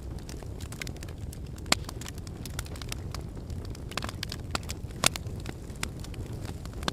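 Wood logs burning in a fireplace: a steady low rumble of flame with irregular crackles and sharp pops, the loudest about two seconds in and again about five seconds in.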